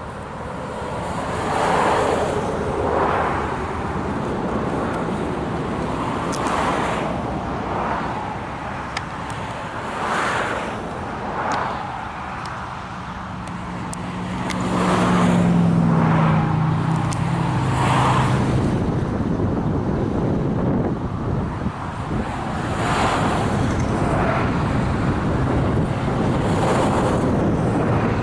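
Road vehicles passing by, their tyre noise swelling and fading again and again, with a low engine drone from a heavier vehicle about halfway through.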